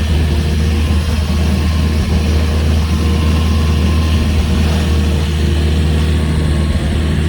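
A motorboat engine running steadily, a deep even hum with no change in speed.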